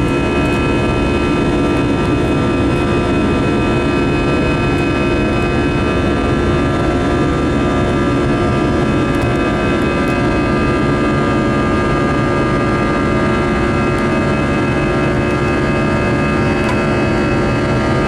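Steady cabin noise of an Airbus A319-115 in the climb, heard from a front seat: the CFM56 jet engines' hum and the rush of air, with several steady whining tones held at one pitch throughout.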